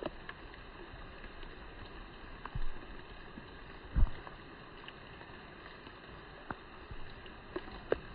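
Steady outdoor background noise with a few faint clicks and two dull low thumps, the louder one about four seconds in.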